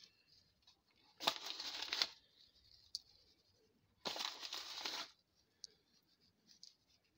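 An onion soup mix pouch being handled, rustling in two bursts of about a second each, roughly three seconds apart, with a few faint ticks between.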